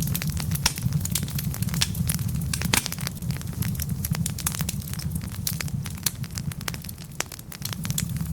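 Wood fire burning on logs in a fireplace: a steady low rumble of flame under many irregular sharp crackles and pops.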